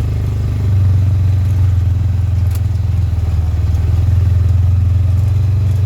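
Utility vehicle's engine running at a steady speed while driving, a constant low drone.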